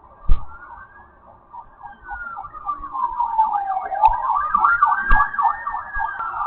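Police siren wailing, its pitch sliding slowly down and then back up, growing louder as it approaches. A sharp knock sounds just after the start.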